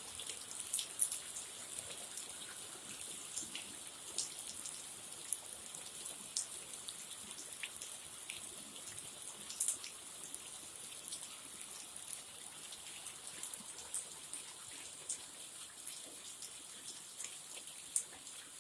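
Heavy rain falling steadily, a constant hiss with many sharp drop impacts scattered through it.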